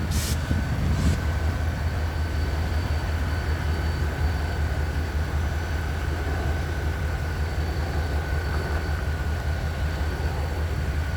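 Diesel-electric locomotive idling with a steady low rumble and a constant whine above it, after it has been powered up to move off. Two short hisses sound in the first second or so.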